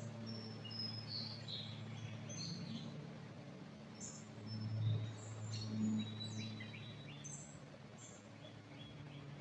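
Wild songbirds chirping in many short, high, quick notes, several calls overlapping, over a low steady hum.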